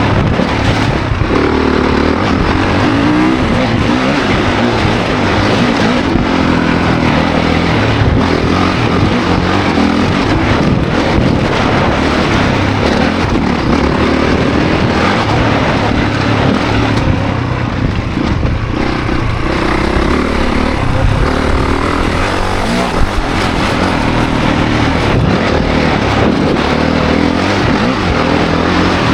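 2024 Honda CRF450 dirt bike's single-cylinder four-stroke engine being ridden hard, its revs rising and falling continuously.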